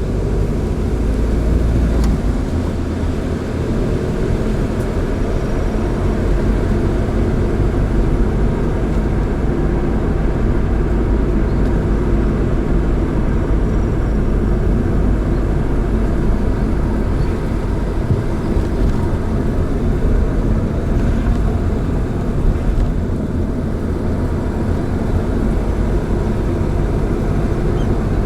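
A car driving at a steady pace: continuous engine and tyre road noise with a strong low rumble.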